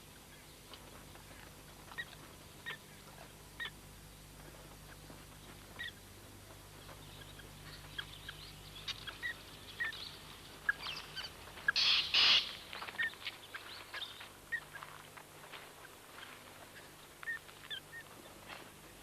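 Birds calling in the wild: scattered short chirps and calls, with a louder flurry of calls about twelve seconds in.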